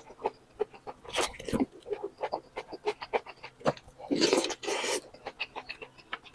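Someone eating boat noodles close to the microphone: noodles slurped in two longer rushes, about a second in and again around four seconds in, with wet chewing clicks in between.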